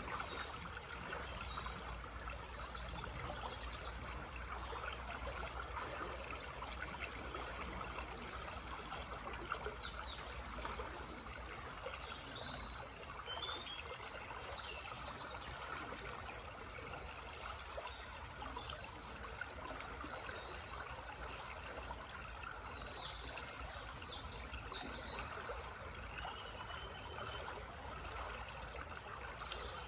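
A small forest stream babbling steadily over stones, with birds chirping now and then through it.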